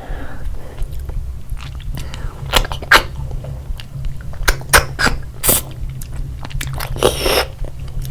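Close-miked eating sounds: wet chewing and a series of sharp crunching clicks, with a longer crunchy stretch near the end, over a steady low hum.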